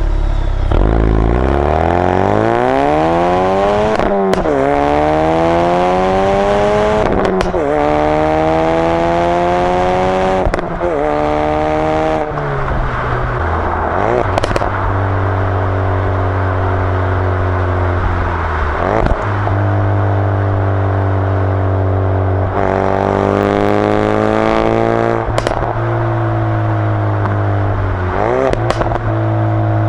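Exhaust of a 2016 Ford Focus RS's 2.3-litre turbocharged four-cylinder, heard from a microphone at the rear, accelerating hard through the gears: the engine note climbs, then drops abruptly at each of several gear changes with a sharp crack. In the second half it holds steadier revs between shifts.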